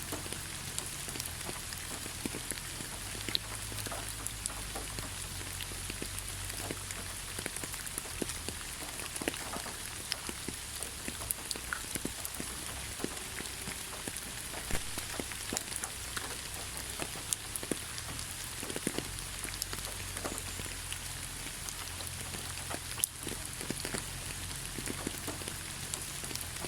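Steady rain falling on a surface: an even hiss with many individual drops ticking sharply throughout.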